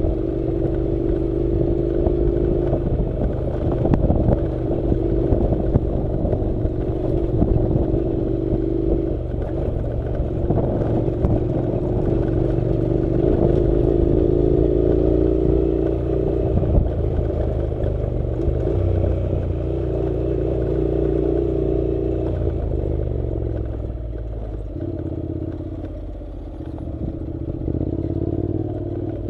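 Honda NC700's parallel-twin engine running under way on a dirt road, its note shifting as the throttle changes and easing off briefly near the end before picking up again. Steady clatter and knocks from the rough ride over the loose surface.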